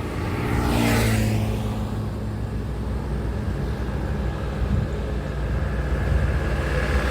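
Highway traffic: a vehicle passes close, its tyre rush peaking about a second in, over the steady low hum of a heavy engine.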